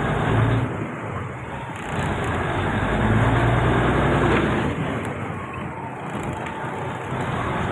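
Diesel railcar train running along the track: a steady rumble of engine and wheels, with a low engine drone that swells between about three and four and a half seconds in.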